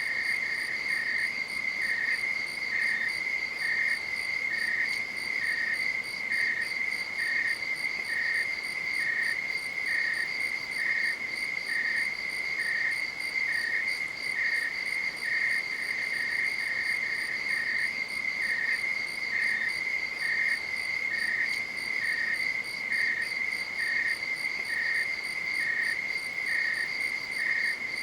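Night insects calling: a steady, high, pulsing trill with a second insect's short chirps repeating evenly about twice a second just beneath it.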